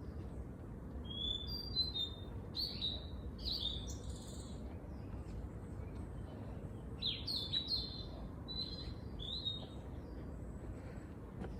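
Wild songbirds chirping in short bright notes, in two bouts, one from about a second in and another in the second half, over a steady low background rumble.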